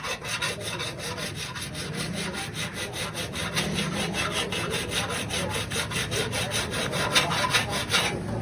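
Fast back-and-forth abrasive rubbing strokes on a car body panel, about five or six strokes a second, stopping near the end.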